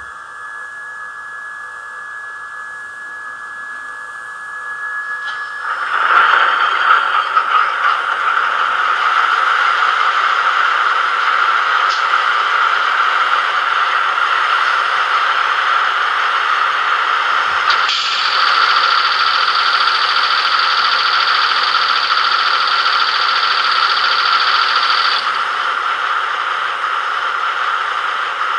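Digital sound-decoder recording of a BR 106 diesel shunting locomotive's engine, played through the tiny speaker of a TT-scale model. The engine runs quietly at first, then grows louder about six seconds in as it throttles up. A steady high whine joins for several seconds past the middle.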